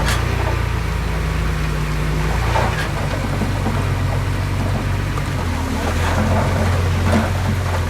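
Heavy diesel engine of earthmoving machinery running steadily; its note shifts about three seconds in. A few faint knocks are heard over it.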